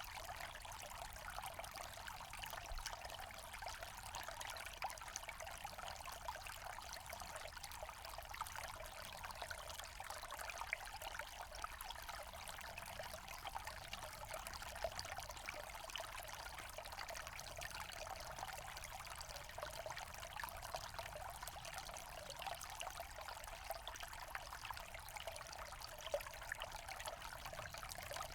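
Small forest stream trickling and splashing over stones, a steady, even babble.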